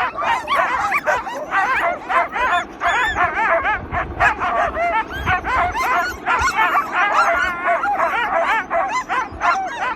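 A pack of sled dogs yipping, whining and barking together in a dense, overlapping chorus of short high-pitched calls: the excited clamour that sled dogs raise before a run.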